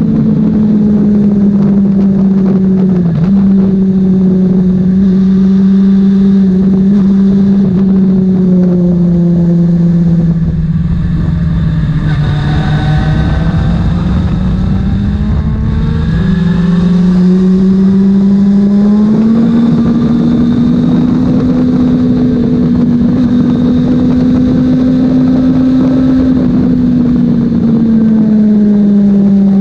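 Racing motorcycle engines running continuously. One strong engine note drifts slowly up and down in pitch, and other engine notes glide past around the middle.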